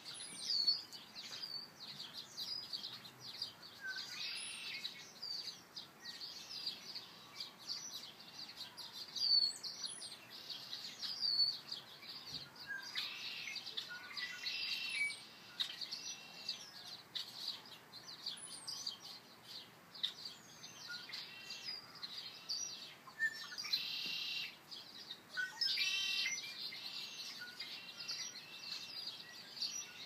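Several songbirds singing and calling at once: a steady mix of short notes, quick trills and thin high slurred whistles from more than one bird, overlapping throughout.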